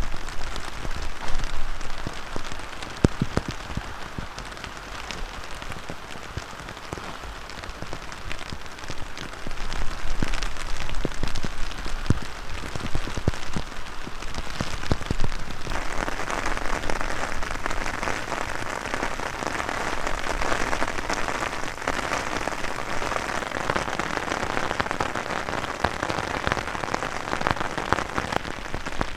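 Heavy rain falling on a surface, with many separate drop hits among a steady hiss. About halfway through, the rain abruptly becomes louder and fuller.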